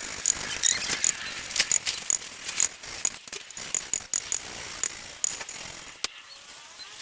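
Valve lapping on a Mini 1293 cylinder head: gritty scraping and a fast, irregular run of sharp clicks as a valve is twisted back and forth against its seat with grinding paste. The clicking thins out about six seconds in.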